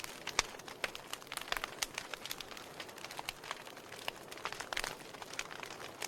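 Wood fire in a fireplace, logs crackling with irregular sharp pops over a soft steady hiss; the loudest pop comes about half a second in.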